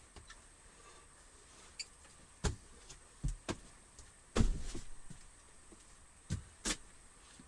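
Irregular knocks and clatter of objects being handled, a handful of separate strikes, the loudest about four and a half seconds in and followed by a short rattle.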